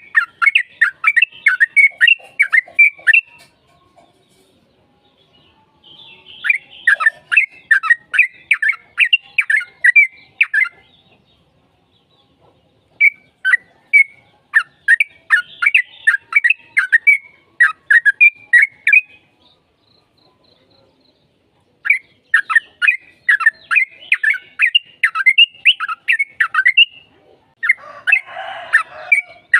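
Yellow-vented bulbul singing: four long phrases of rapid, bubbly chirping notes, each a few seconds long with short pauses between them. Near the end comes a harsher, rasping call.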